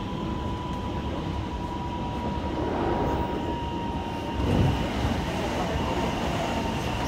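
Steady running noise inside a moving commuter train: a low rumble of wheels on rail with a thin steady whine. About four and a half seconds in, a brief swell as an oncoming train passes close alongside.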